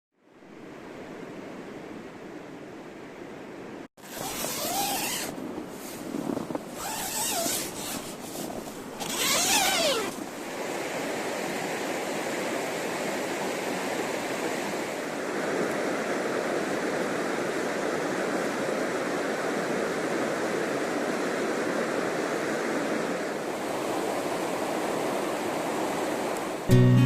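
Steady rush of flowing river water, a continuous even roar, broken by a sudden cut about four seconds in. Between about five and ten seconds in, a few brief gusts of louder hiss and some faint rising-and-falling whistle-like calls ride over it.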